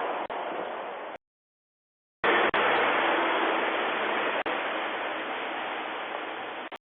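Road traffic noise: the rushing hiss of a passing vehicle that starts loud and fades away over several seconds, broken by about a second of dead silence where the recording cuts.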